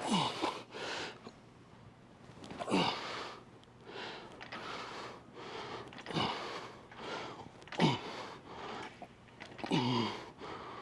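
A man breathing hard and grunting through repetitions of a weightlifting set: about five forceful breathy exhales, each with a short groan that drops in pitch.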